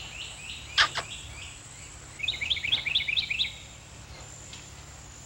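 A small bird chirping in quick runs of repeated short falling notes, about six a second, with a short sharp sound about a second in.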